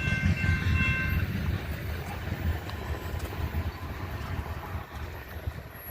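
Rumble of a freight train's last cars rolling past on the rails, fading away as the end of the train goes by, with a brief thin squeal in the first second.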